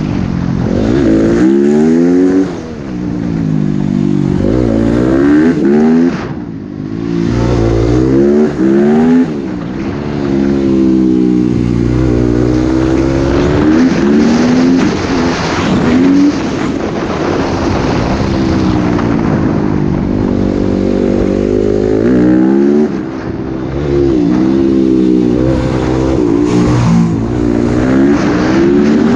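Motocross dirt bike engine revving hard, its pitch climbing and dropping again and again as the rider accelerates, shifts and rolls off the throttle.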